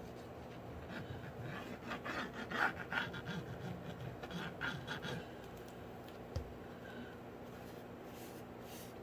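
Rubbing and scratching of a glue bottle's nozzle and hands working across fabric as Fabri-Tac glue is applied along its edge, followed by a single soft knock about six seconds in.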